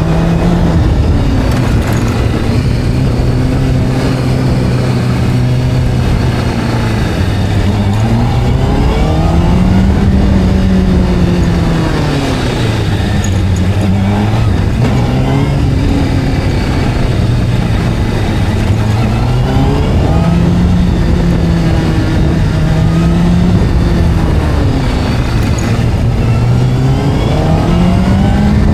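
Motorcycle engine running under way, its pitch rising and falling several times as it speeds up, holds steady and slows.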